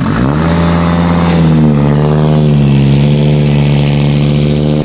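A car engine revving hard: its note sweeps up sharply at the start, dips slightly about two seconds in, then holds a steady high-rev drone until it cuts off abruptly near the end.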